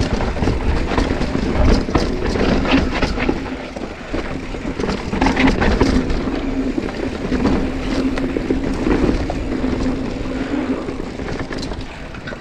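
Mountain bike riding over a rough, rocky dirt trail: constant tyre and trail noise with frequent sharp knocks and rattles from the bike, and wind buffeting the microphone.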